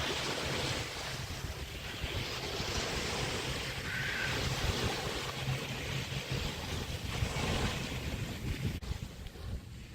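Small waves washing onto a bay beach in a steady, swelling hiss, with wind buffeting the microphone as a low rumble.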